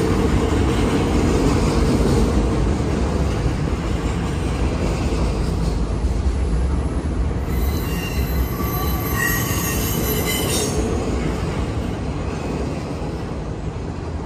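Double-stack intermodal container cars of a freight train rolling past at close range: a steady rumble of steel wheels on rail, with high wheel squeal a few seconds in the middle.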